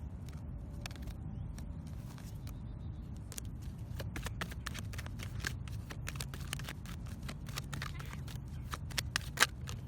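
Oracle or tarot cards being handled and shuffled: a run of light flicks and clicks that grows busier about halfway through, with one sharper snap near the end, over a low steady rumble.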